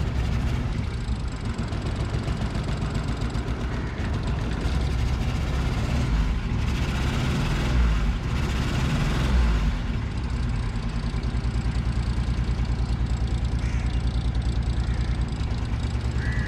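Suzuki Cultus petrol engine running, heard from inside the cabin: a steady rumble that grows louder for a few seconds in the middle, then settles into an even pulsing. The owner says the engine has a problem and burns too much petrol; the mechanic puts it down to shorted spark plugs.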